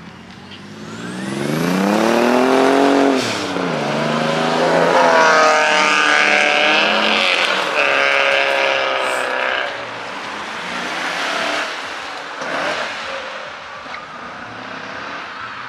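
A car engine revving hard as the car accelerates away, its pitch climbing and dropping back at each upshift, about three seconds and seven and a half seconds in, then fading as the car pulls off.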